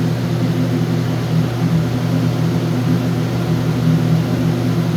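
Steady drone of running building machinery: a continuous low hum made of several held tones, unchanging throughout.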